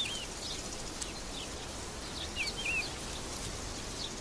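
Forest ambience: a steady soft hiss with a small bird's short, rising-and-falling chirps, a quick phrase at the start and another about two and a half seconds in.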